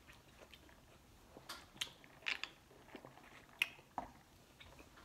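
A person chewing food close to the microphone: a run of short mouth clicks from about a second and a half in, the loudest near three and a half seconds.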